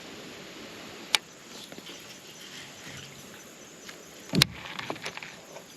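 Steady hiss of current flowing past a small boat, with a sharp click about a second in and a louder knock around four seconds in, followed by a few lighter clicks, as a hooked bass is fought.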